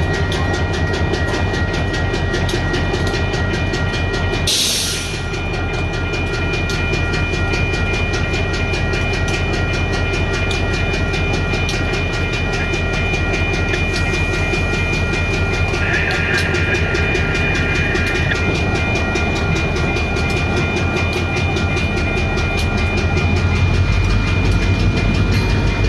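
Canadian Pacific diesel locomotives pulling a train through a level crossing: a steady low engine rumble and wheel clatter, with the crossing bell ringing over it. There is a short hiss about four and a half seconds in, and the engines grow louder near the end as they come closer.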